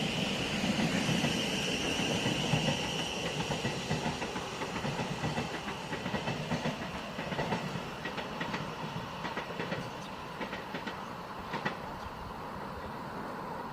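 Thameslink Class 700 Desiro City electric multiple unit pulling away, its traction motors whining at first, then its wheels clicking over the track as it fades into the distance.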